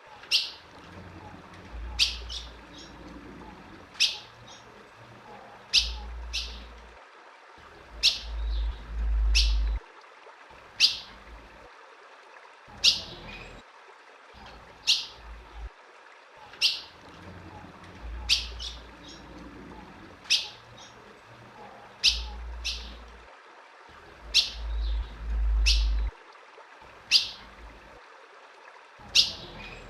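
Female ultramarine grosbeak (azulão) giving short, sharp chip calls, one every second or two in a steady series. A low rumble comes in twice in the background.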